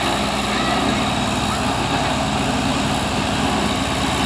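A heavy vehicle or machine engine running steadily, with a low, even drone.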